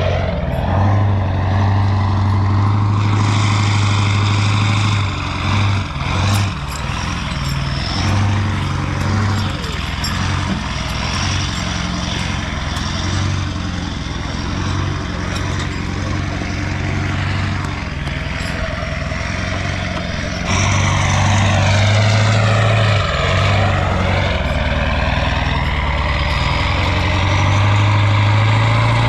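Four-wheel-drive vehicle's engine running under load as it drives, with a strong low hum whose pitch shifts up and down throughout.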